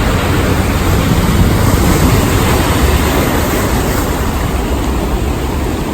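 Loud, steady rush of sea surf mixed with wind buffeting the microphone, heavy in the low rumble.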